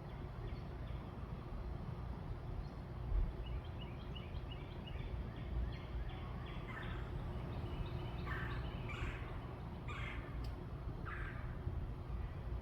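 Backyard birds calling: a quick run of short high chirps, then several louder, harsher calls a second or so apart, over a steady low rumble of background noise.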